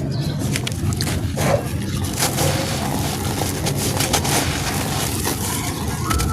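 Dry, dusty sand-cement chunks crumbling and crunching, with many short crackles.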